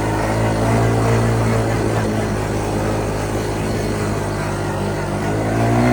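Small ATV engine, a Yamaha Grizzly 125's single-cylinder four-stroke, running at a steady cruising speed while riding, picking up revs near the end.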